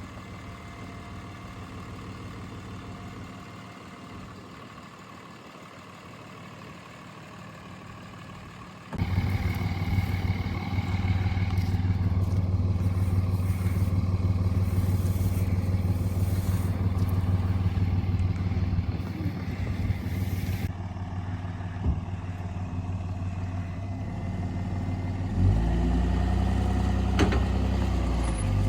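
Vehicle engine running. It starts at a moderate level and gets suddenly much louder about nine seconds in, then revs up near the end.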